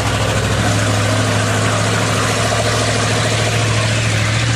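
Truck engine idling steadily, with a constant hiss over it.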